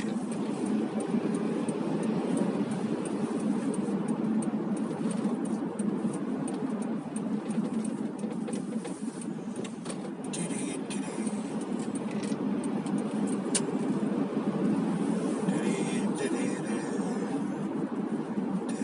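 Steady car driving noise heard from inside the cabin: a low rumble of engine and tyres on the road, with a few faint clicks.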